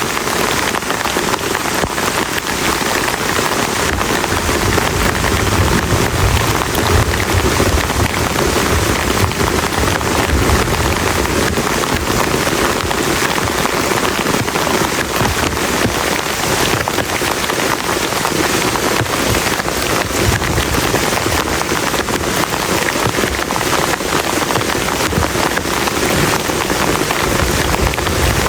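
Very heavy rain falling steadily, a dense patter of drops hitting a close surface, with a low rumble that swells now and then.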